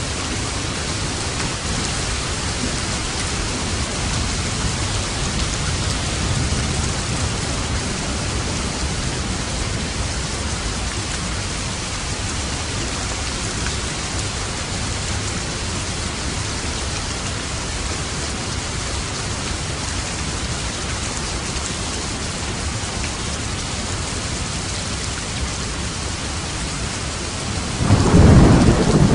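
Steady rain falling, with low thunder rumbling underneath. Near the end a louder roll of thunder breaks in suddenly.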